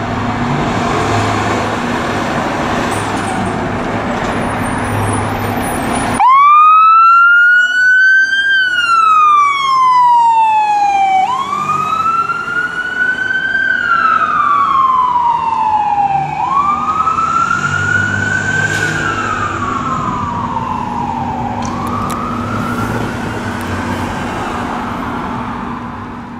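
Heavy vehicle engine and road noise, then about six seconds in an emergency vehicle's electronic siren sounds in wail mode: a slow rise and fall in pitch repeating about every five seconds, four times, fading near the end.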